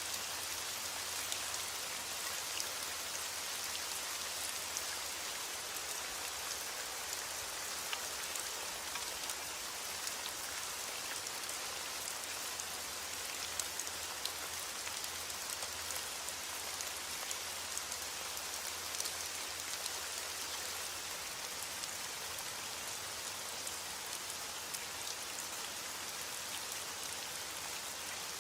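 Heavy rain falling steadily, a constant hiss with the fine patter of individual drops.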